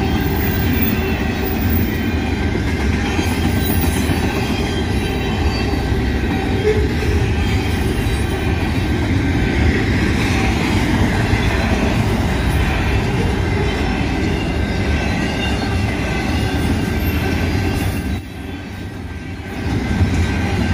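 Double-stack intermodal freight cars rolling past: a steady, loud rumble of steel wheels on rail. It drops briefly about eighteen seconds in, then comes back.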